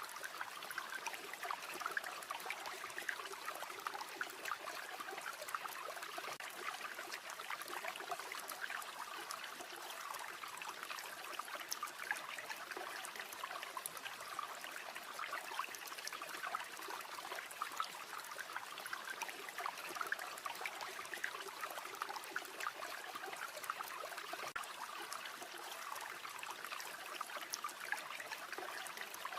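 River water flowing with a steady babble.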